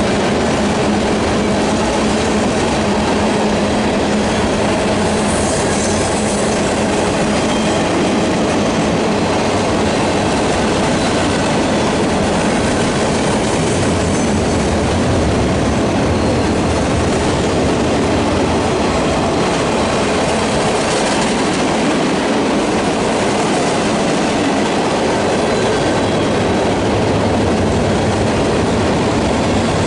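Norfolk Southern mixed freight cars (covered hoppers, boxcars, gondolas, coil cars and tank cars) rolling past at a steady speed: a continuous, even rumble and clatter of steel wheels on the rails.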